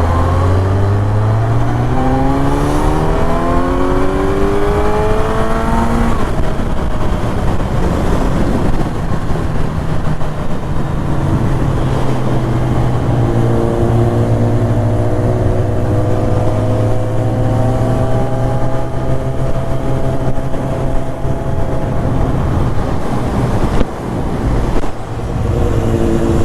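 BMW S1000RR's inline-four engine running through an Akrapovic Evolution exhaust under acceleration. Its pitch climbs for about six seconds, drops sharply at a gear change, then holds and rises slowly again.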